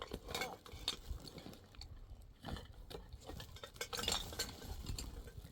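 Dishes and utensils being handled: scattered light clinks and taps.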